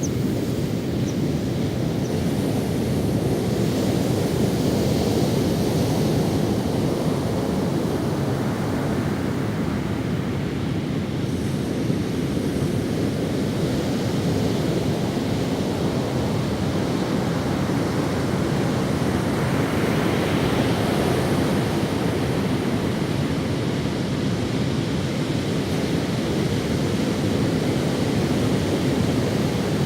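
Ocean waves breaking and washing up on a sandy beach, a steady rushing surf with gentle swells, with some wind on the microphone.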